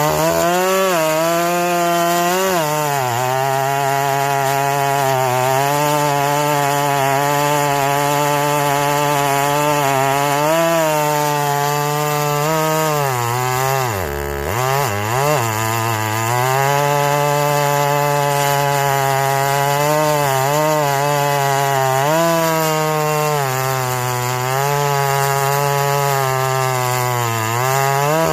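A small engine running at high revs, its pitch sagging and recovering again and again, with a deep drop about halfway through before it climbs back up.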